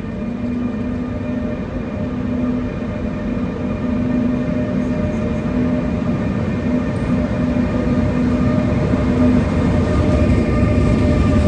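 Electric train approaching: a steady electric whine over a low rumble, growing steadily louder.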